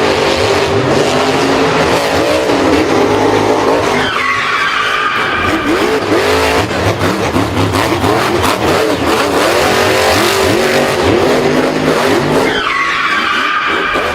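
Racing vehicle engines revving up and down with tire skidding. A high, falling screech comes about four seconds in and again near the end.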